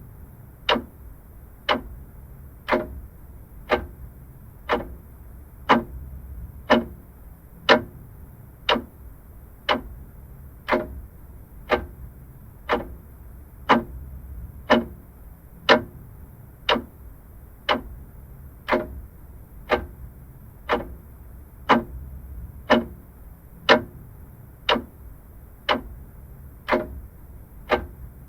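Vintage mechanical clock ticking steadily, about one sharp tick a second, over a faint low rumble.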